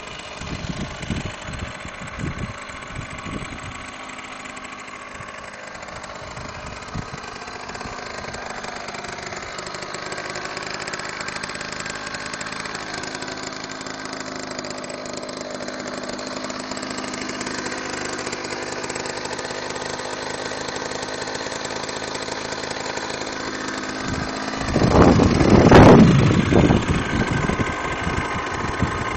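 Derbi Senda X-Race 49cc two-stroke moped engine idling steadily through twin Metrakit Thrower MK2 exhausts. Near the end there is a louder burst lasting about two seconds.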